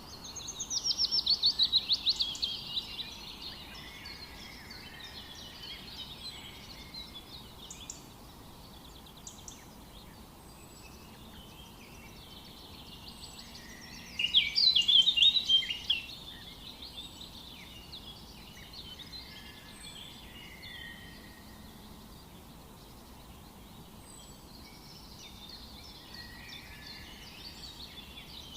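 Several songbirds singing. A loud, rapid trilled phrase comes right at the start and another about halfway through, with quieter songs and high chirps in between, over a soft background hush.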